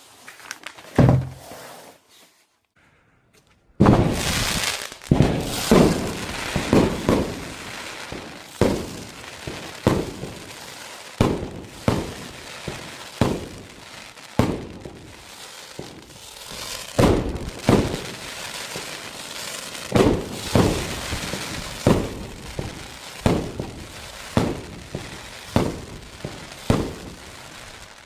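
Tristar 30 mm 'Long Crackling Palm' firework firing shot after shot: a single bang about a second in, then from about four seconds a sharp launch thump roughly once a second with steady crackling between them.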